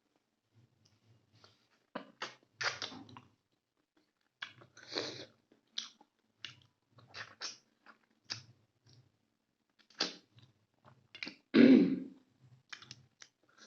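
Chewing and eating sounds from a mouthful of rice and chicken gravy: irregular wet mouth clicks and smacks, with a louder, deeper burst near the end.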